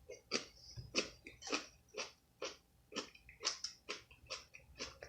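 A person chewing food close to the microphone, mouth sounds coming in a regular run of about three chews a second.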